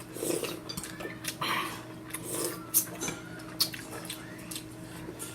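Spoons and chopsticks clinking and knocking against bowls as noodle soup is eaten, in scattered short clicks.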